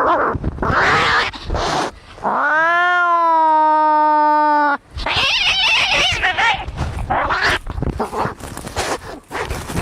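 Cats fighting: rough, noisy squalls, then about two seconds in one long yowl that rises and holds steady for about two and a half seconds, followed by more harsh, noisy squalls.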